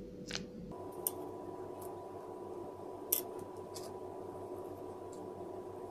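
Scattered faint sharp clicks and taps of butter pieces and a knife being handled while they are pressed into holes in a yeast dough, over a steady low hum.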